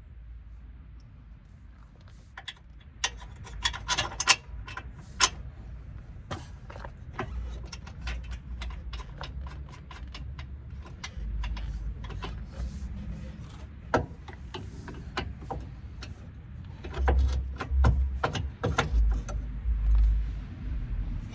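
Metal hand tools and sockets clinking and clicking in a long series of sharp, irregular taps during work on a car's front suspension, with heavier low thumps near the end.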